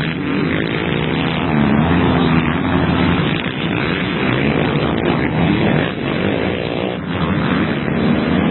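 Several motocross bikes racing together, their engines revving up and down through the gears over one another.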